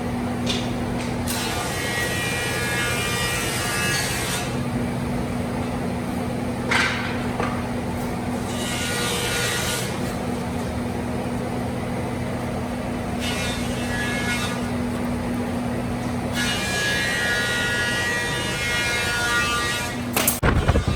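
Electric woodworking power tool running steadily on wood, with a constant motor hum and a hiss that swells and fades as it works. The motor stops about twenty seconds in.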